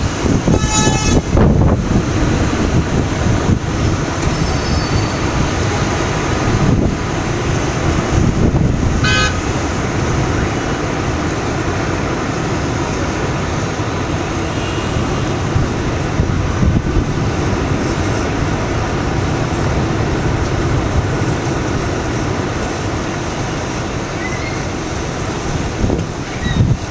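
Loud, steady roar of a tornado's winds. A short pitched blast sounds about a second in and another near nine seconds.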